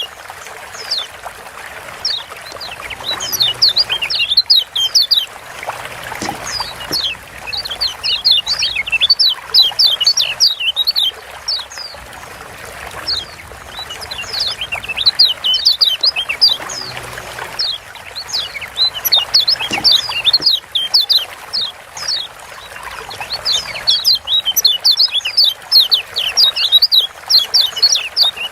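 Yellow white-eye giving bursts of rapid, sharp downward-slurred 'ciak' chirps, each burst lasting a few seconds with short pauses between, over a steady background hiss.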